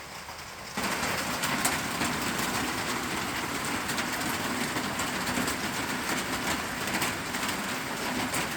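Heavy rain falling on a metal roof, a dense steady patter that jumps suddenly louder about a second in.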